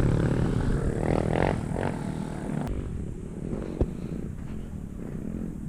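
Racer Alpha RC50 moped's small single-cylinder four-stroke engine running and easing off, its sound fading steadily. The rush of wind noise cuts out about halfway through as the moped slows.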